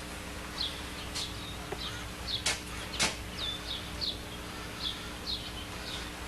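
A bird chirping over and over, short high chirps that fall in pitch, about one or two a second, over a steady low hum. Two sharp clicks come about two and a half and three seconds in.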